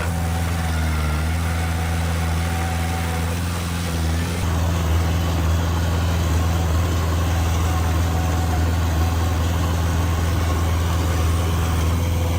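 Heavy construction machine's diesel engine running steadily with an even, low hum.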